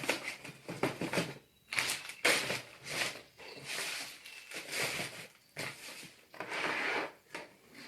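Packaging being handled during an unboxing: irregular crinkling and rustling bursts with short pauses between them.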